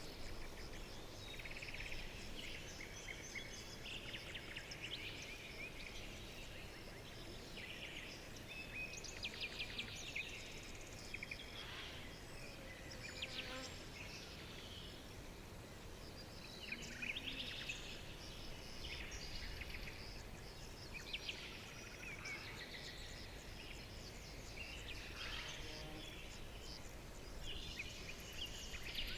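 Several birds chirping and trilling, their short calls and rapid trills overlapping throughout, over a steady low background rumble.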